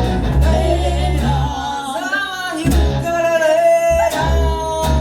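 A live band playing a song: a voice holding long sung notes over guitar and bass, with short drum or cymbal hits repeating through it.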